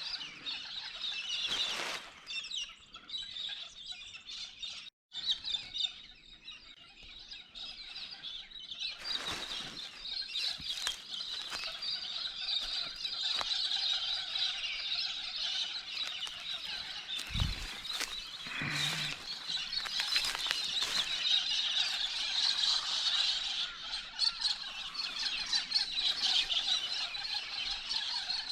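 Many birds calling at once in a dense, continuous high chatter, broken briefly about five seconds in. A couple of low thumps sound a little past halfway.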